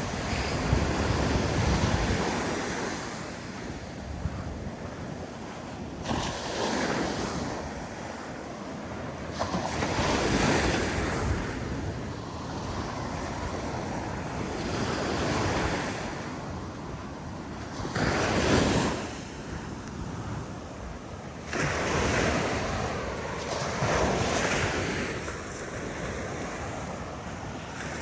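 Ocean surf breaking and washing up the beach, surging and easing every few seconds, with wind buffeting the microphone.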